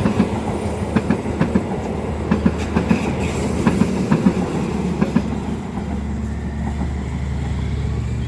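Railway cars rolling past, their wheels clicking irregularly over rail joints for about five seconds, then giving way to a steady low drone near the end.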